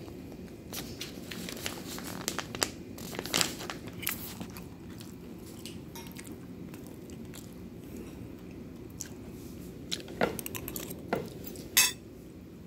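A person chewing food, with scattered clicks over a steady low background hum; a few louder sharp clicks come about a third of the way in and near the end.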